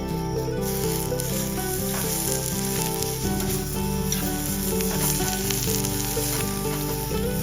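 Food sizzling as it fries, a steady crackling hiss that picks up about half a second in, over background music.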